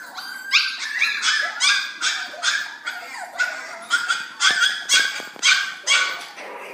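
Young puppies yapping: a rapid run of short, high-pitched yips and barks, about two or three a second.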